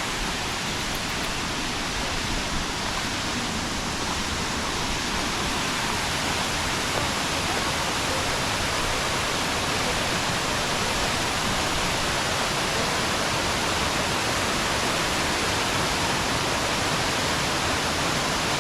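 Aber Falls, a 120-foot waterfall, giving a steady, dense rush of falling water that grows slightly louder.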